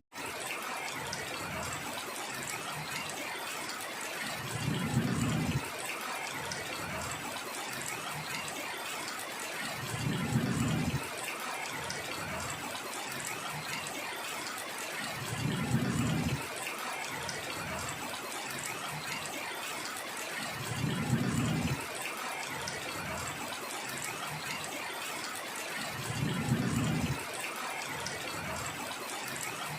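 Heavy rain falling steadily. About every five seconds a short low rumble swells and fades, six times, evenly spaced.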